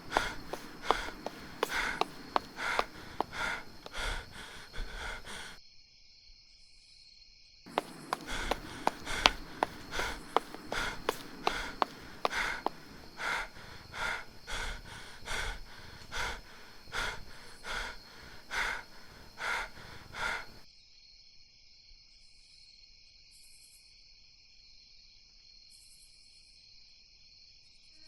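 A man panting hard and rhythmically as he runs, about one and a half breaths a second. The panting breaks off for about two seconds some six seconds in, resumes, and stops about twenty seconds in, leaving only a faint steady hiss.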